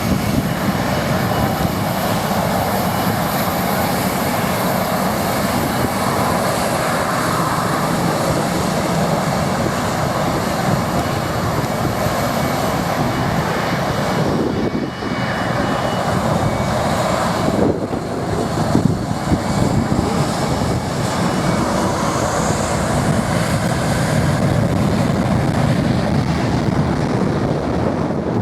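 Boeing 737 jet engines at takeoff power, their blast a loud, steady rush of noise with a faint high whine. It dips briefly twice about halfway through.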